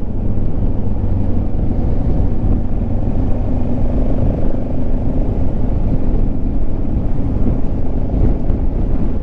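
Motorcycle engine running steadily at road speed, mixed with heavy wind rush on the rider's camera microphone.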